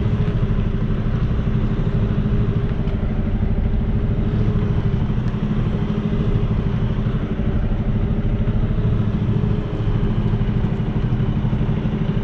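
Semi truck's diesel engine running steadily during low-speed backing manoeuvres.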